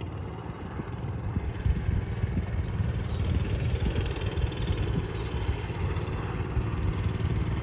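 Mini bike's small engine running steadily.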